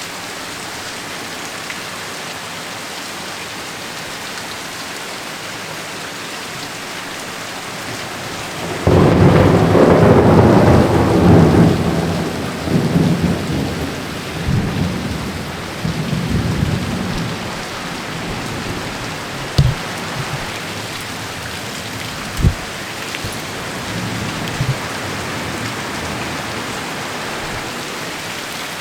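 Heavy rain falling steadily. About a third of the way in, a loud thunderclap breaks out and rumbles on in rolling swells for several seconds before fading. Later come two brief sharp knocks a few seconds apart, with the rain carrying on.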